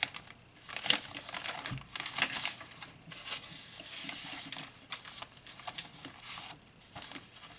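Paper rustling and crinkling in irregular bursts with small clicks as the paper pages and tucks of a handmade junk journal are handled and turned.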